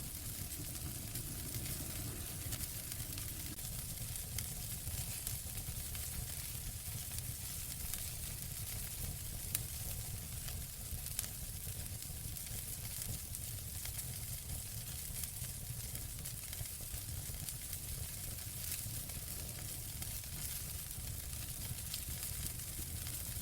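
Fireplace fire crackling: a steady hiss full of small snaps over a low rumble, with two louder pops about halfway through.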